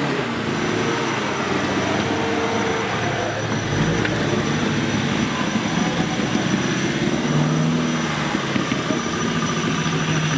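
Off-road competition vehicle's engine running under load, its pitch shifting up and down as the revs change.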